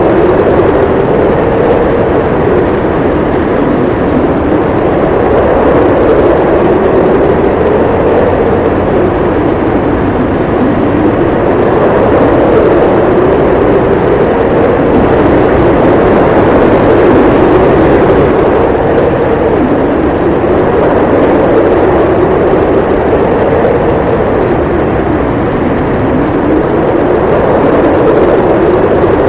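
Howling snowstorm wind: a continuous loud rush with a howling tone that slowly rises and falls in pitch, swelling and easing every few seconds.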